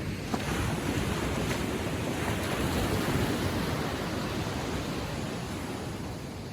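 Gentle Atlantic waves lapping on a sandy shore: one wash of surf swells about half a second in, peaks midway and slowly fades.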